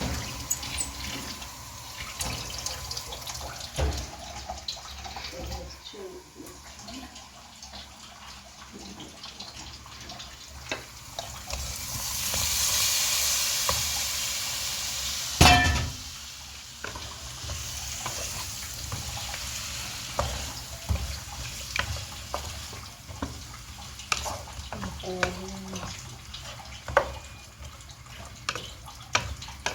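Water being poured and splashed, with scattered clinks and knocks of dishes or utensils. A longer, louder pour runs from about twelve seconds in and ends in a sharp knock.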